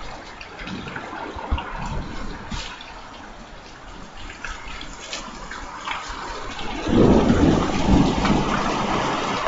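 Heavy rain falling, with scattered drops ticking close by. About seven seconds in, a loud low rumble of thunder rises and carries on.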